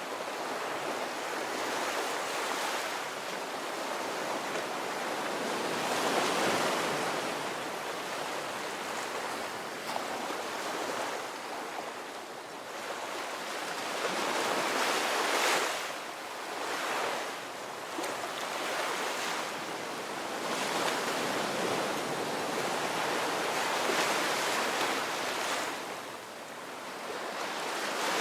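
Ocean waves breaking and washing up a beach, the surf swelling and easing every few seconds, with some wind on the microphone.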